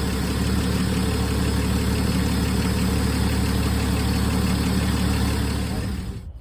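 1962 Plymouth Valiant engine idling steadily just after a cold start, then shut off a little before the end, the running sound dying away.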